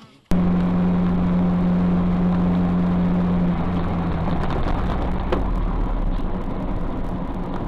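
A car driving, with steady engine and road noise that starts abruptly. A steady hum runs through it and drops away about four seconds in.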